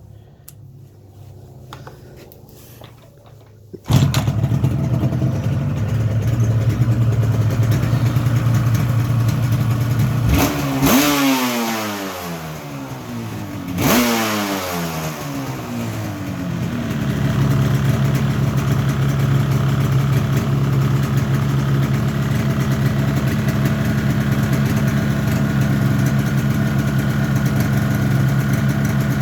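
1985 Yamaha RZ350's two-stroke parallel-twin engine catching about four seconds in and running. It is revved twice, each time rising and falling in pitch, then settles into a steady idle.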